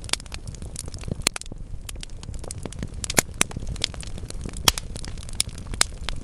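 Burning logs in a fireplace crackling constantly over a steady low rumble, with half a dozen sharper, louder pops scattered through.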